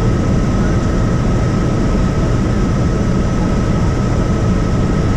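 Helicopter in flight: a loud, steady engine and rotor rumble with a thin, steady high whine over it.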